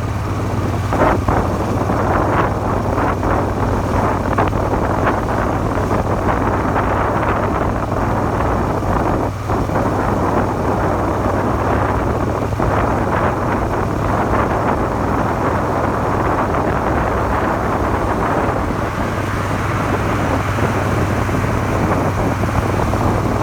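Suzuki SV400 V-twin engine running steadily under way, with heavy wind rush on the microphone.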